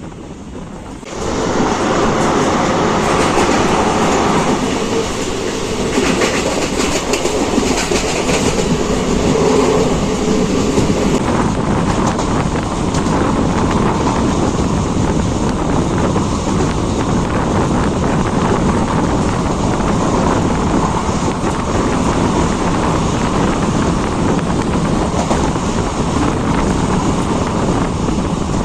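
Express passenger train running, with wheels clattering over the track and coach rattle; the noise jumps sharply louder about a second in and then holds steady.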